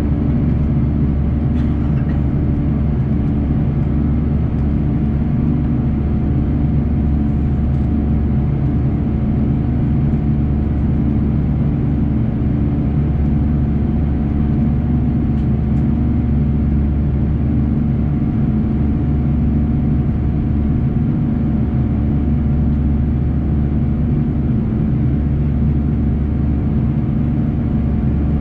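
Airbus A340-300's four CFM56 jet engines heard from inside the passenger cabin: a steady loud drone with fixed engine tones and no change in pitch.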